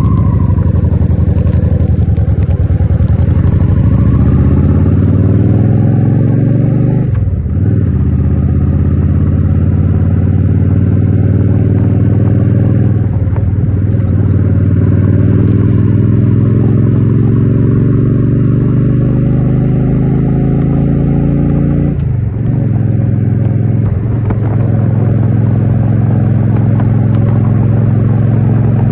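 Honda Shadow 750's V-twin engine accelerating through the gears while riding. The note rises, dips briefly and drops in pitch at three gear changes, then holds steady at cruising speed near the end.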